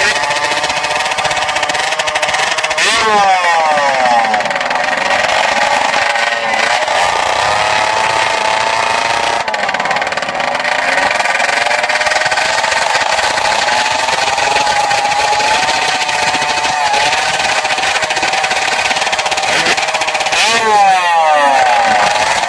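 Small motorcycle engines running at a high, unsteady idle on the drag-strip start line, their pitch wavering as the riders hold the throttle. They are revved up in quick blips about three seconds in and again near the end.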